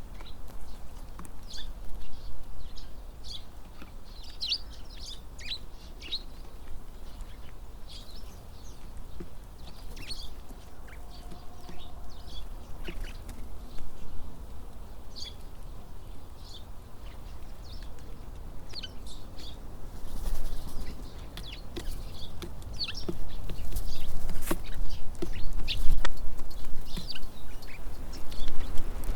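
Tits calling in many short, high chirps scattered throughout, over wind rumbling on the microphone that grows stronger in the last third.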